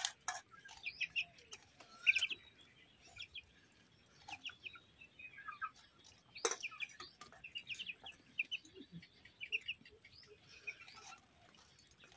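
Birds chirping in short, repeated high calls, with a few sharp clicks and one louder knock about six and a half seconds in.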